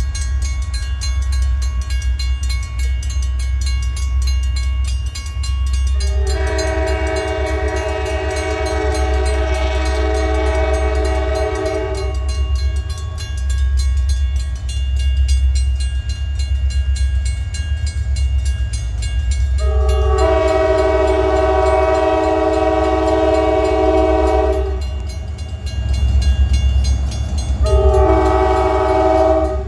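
Diesel locomotive horn sounding two long blasts and then a short one, the start of the long-long-short-long pattern sounded at a road crossing, over the steady low rumble of the passing train.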